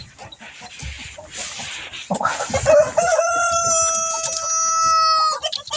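A rooster crowing: one long call that starts about two seconds in and holds a steady pitch for over two seconds before cutting off. Before it, chickens scuffle and rustle as they are being caught.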